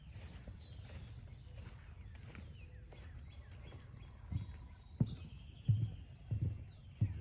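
Footsteps on a forest trail, dull thumps starting about four seconds in at a steady walking pace, about one and a half a second, with a few faint bird chirps and short whistles over a low outdoor hiss.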